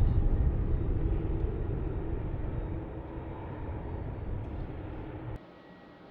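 Low rumble of a jet airliner's engines, loudest at the start and slowly fading as the aircraft moves away. It cuts off suddenly near the end, leaving only a faint steady hum.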